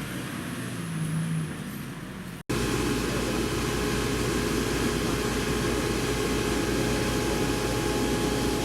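Steady engine noise. About two and a half seconds in, an abrupt cut brings it in louder, with a low rumble and several steady whining tones over a noisy hum.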